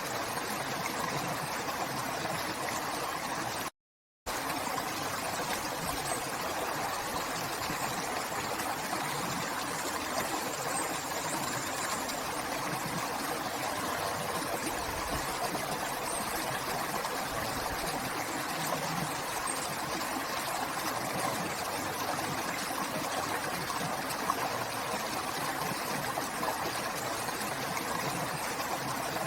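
River water flowing steadily, an even rushing noise, cut by a brief dropout to silence about four seconds in.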